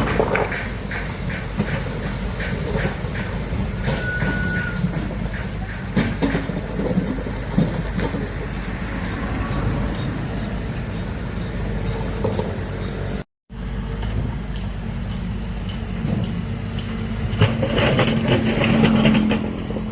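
Heavy earthmoving machinery working: a steady low engine drone with repeated metallic clanks and knocks, getting louder with a steadier engine note near the end. The sound cuts out completely for a moment about two-thirds of the way through.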